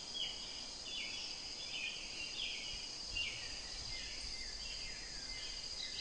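Forest ambience: a steady high insect drone with a bird's short, falling chirps repeated over and over.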